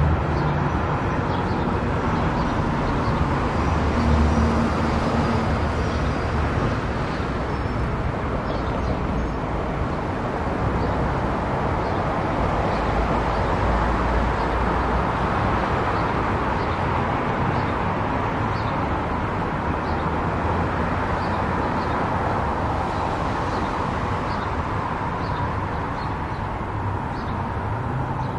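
Steady road and engine noise of a car driving, an even rumble and hiss without breaks.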